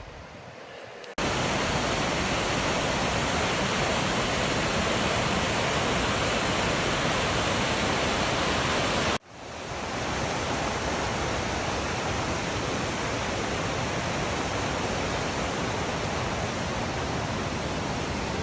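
Waterfall: rushing water making a steady, dense roar. It cuts in suddenly about a second in, breaks off briefly about halfway, and then goes on slightly quieter.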